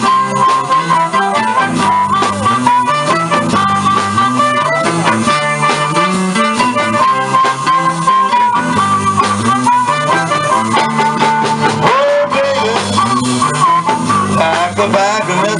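Live blues band playing an instrumental passage: a guitar lead line with bent notes over a repeating bass line.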